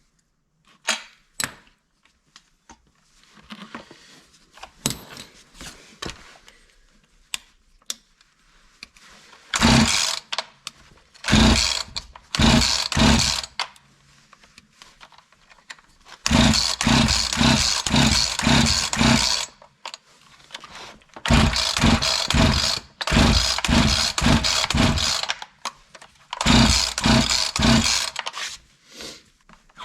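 Husqvarna 345 two-stroke chainsaw being pulled over on its recoil starter in a series of about six pulls, some short and some with several seconds of fast, pulsing cranking, preceded by light clicks of handling. It does not catch and run: the saw won't start even though it has spark and fuel.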